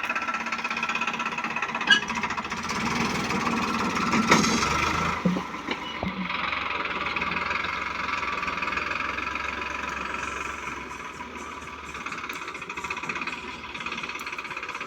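Diesel engine of heavy machinery running steadily, with a couple of sharp metallic knocks in the first few seconds.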